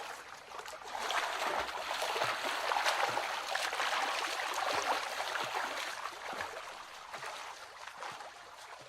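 Running water, a dense hiss flecked with small splashes and clicks, fading out near the end.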